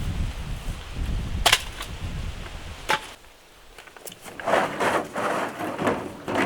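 Low wind rumble on the microphone with two sharp knocks, then, about four seconds in, a series of crunching, rustling noises.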